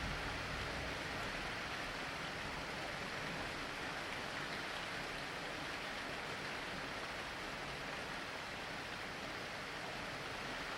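Steady rain falling, an even hiss with no break or distinct events.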